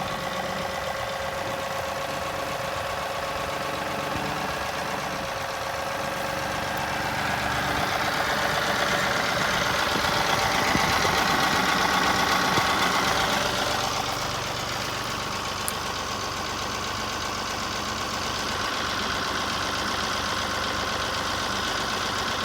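John Deere tractor engine running steadily while the loader works, growing louder for several seconds in the middle and then settling back.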